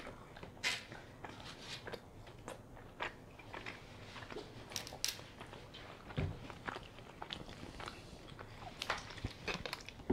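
Close-up eating sounds: chewing and small mouth smacks and clicks while eating donuts, picked up by a lapel mic, with a dull thump about six seconds in.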